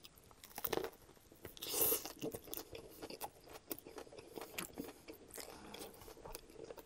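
Close-miked eating of a toasted sub sandwich on herb-and-cheese bread: crunching bites into the crust, the loudest about two seconds in, then chewing with many small mouth clicks.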